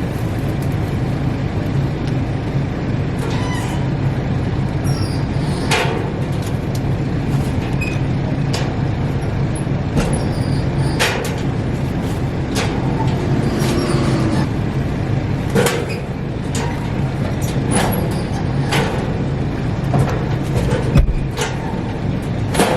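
A vehicle engine idling steadily beneath a series of knocks and clanks from the metal drop door of a clothing donation bin as bags of clothes are loaded in.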